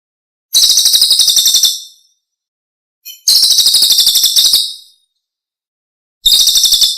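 Recorded songbird song: a rapid, high-pitched trilling phrase about a second and a half long, repeated three times with dead silence between. A short chirp comes just before the second phrase, and the third starts near the end. It is a looped masteran recording, played to teach caged songbirds.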